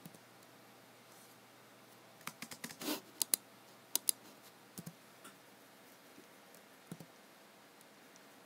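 Sparse clicks of computer work: keyboard keys and mouse buttons pressed irregularly, a quick run of several about two to three seconds in with a brief scrape among them, then a few single clicks spaced a second or so apart.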